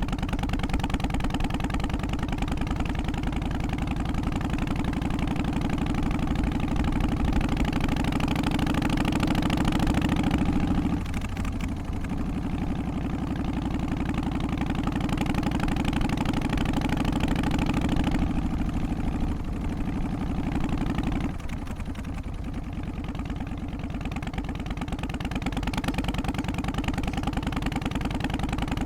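Harley-Davidson Twin Cam 88 V-twin engine of an FXST Softail running with its uneven, loping firing beat. The sound dips briefly about eleven seconds in and again a little past twenty seconds, then picks up again.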